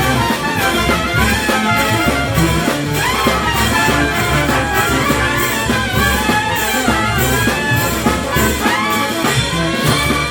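Peruvian brass band playing, with trumpets and trombones carrying the melody over a steady drum beat.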